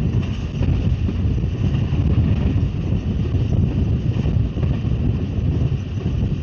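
Wind buffeting the microphone at an open window of a moving passenger train, over the train's steady low rumble.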